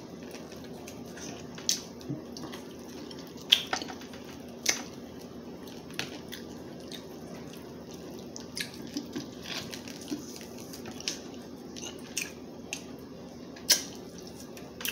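Close-miked wet eating sounds of a person chewing and sucking, with scattered sharp lip smacks and clicks a second or two apart over a faint steady hum.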